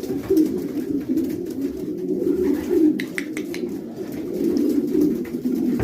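Many racing pigeons cooing together inside a pigeon loft, a continuous overlapping murmur, with a few light clicks or taps about three seconds in.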